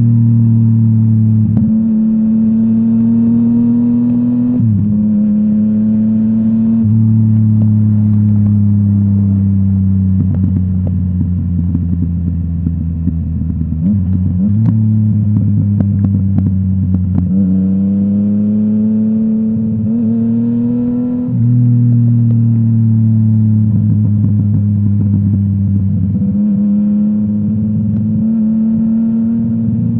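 Yamaha MT-09's inline-three engine running through a full Akrapovic exhaust while ridden. The pitch climbs and drops back several times as it works through the revs and gears. A stretch of popping and crackling from the exhaust comes in the middle.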